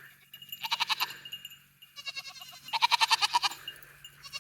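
Goats bleating loudly, two wavering calls, the second longer, about a second and two seconds in; they are screaming because they are hungry.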